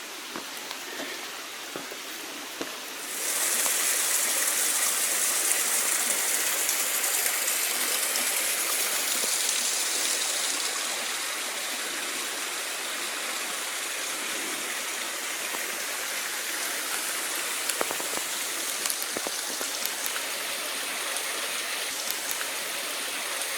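Steady rushing of running water from a stream, coming in suddenly about three seconds in and easing slightly after about ten seconds.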